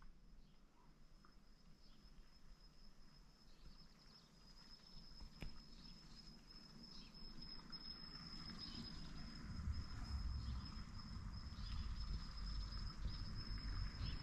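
Crickets trilling in one steady, high, continuous tone, with a low rumble growing in from about two-thirds of the way through.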